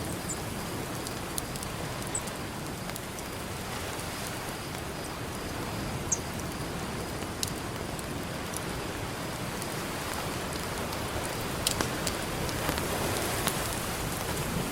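Campfire crackling, with scattered sharp pops and snaps, over the steady wash of ocean surf. A wave swells up a little before the end.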